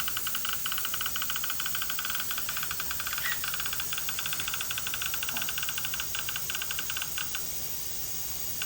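A rapid, even electronic pulsing, many beats a second, over a steady hiss; the pulsing stops shortly before the end.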